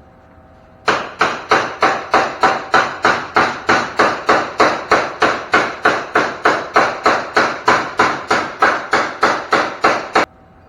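Hammer beating on sheet steel in a steady run of about thirty strikes, about three a second, each with a short metallic ring, as the steel is shaped into a fender. The run starts just under a second in and stops suddenly shortly before the end.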